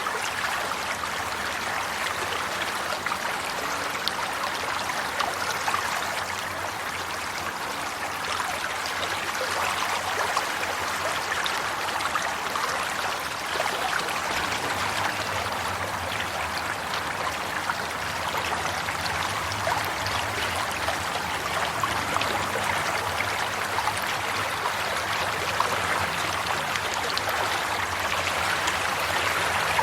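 Steady running water of a stream or brook, a continuous rushing babble with fine splashing and trickling.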